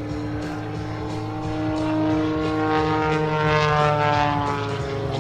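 MXS-RH aerobatic monoplane's 370-horsepower engine and propeller running with a steady droning tone. The pitch climbs slightly, then slides down over the last two seconds or so.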